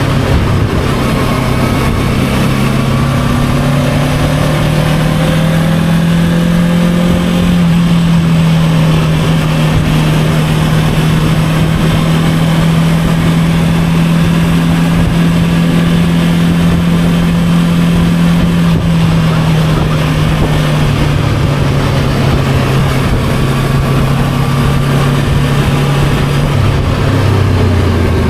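Motorcycle engine running at a steady cruising pace under a constant rush of wind and road noise. The engine note holds nearly level throughout and drops near the end.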